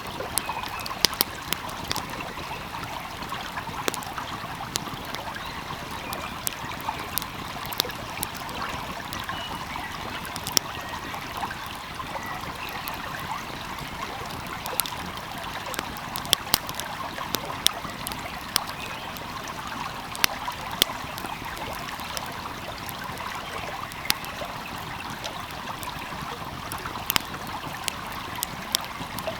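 A small stream flowing steadily, with sharp pops and crackles from a wood fire scattered irregularly over it.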